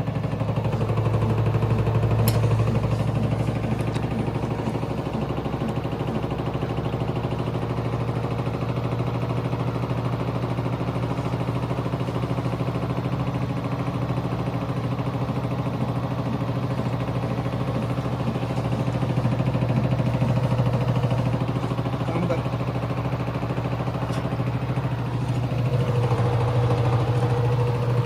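LG 7 kg front-load washing machine running with its drum loaded with wet clothes and the front panel off: a steady motor and drum hum, rising slightly in level and pitch near the end. It is being run to check a drum noise that points to a fault inside the machine.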